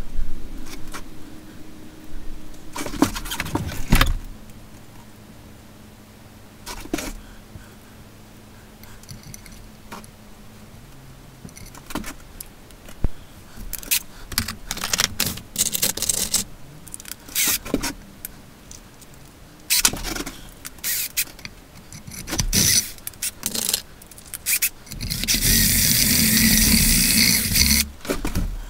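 Small hard objects being handled: scattered clinks and knocks, with a few seconds of loud scraping hiss near the end.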